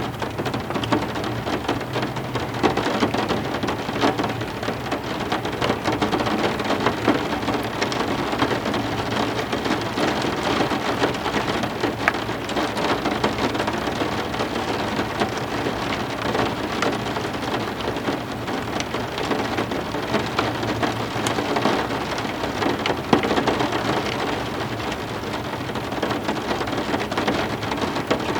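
Heavy rain falling steadily, a dense even hiss of drops on hard surfaces, with a few sharper single drop hits standing out.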